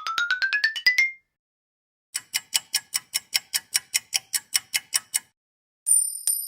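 Sound effects in sequence: a run of rapid clicks rising in pitch ends about a second in. After a short gap comes clock-like ticking, about five ticks a second for three seconds. Near the end a sudden high, bright ringing tone sounds.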